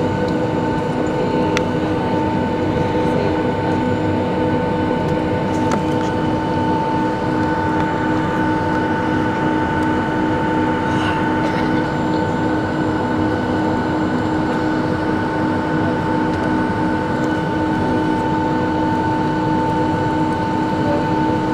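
Steady cabin noise of a Boeing 757 with Rolls-Royce engines taxiing after landing: the engines' even hum and rush with several steady whining tones over it.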